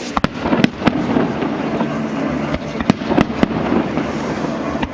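Aerial fireworks bursting: sharp bangs, three within the first second and three more about three seconds in, over a steady background noise.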